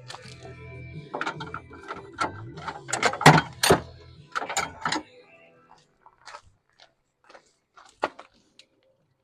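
Hand tools working metal fasteners: a socket ratchet clicking and tools knocking on metal, a dense run of clicks and knocks for about five seconds, then scattered single ticks, as bolts are loosened on the rear hydraulic screen cover.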